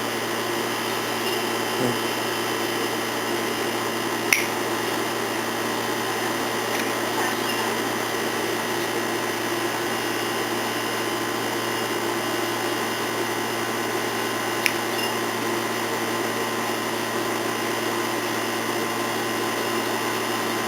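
Steady mechanical whir with a constant hum, unchanging in level, with two small sharp clicks about four and fifteen seconds in.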